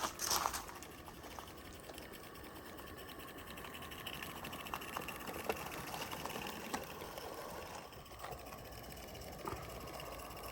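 Small live-steam garden-railway locomotive running, its exhaust beats coming in a rapid even rhythm with a few light clicks.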